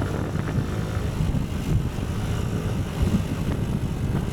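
Motorcycle engine running while riding along, with wind buffeting the microphone.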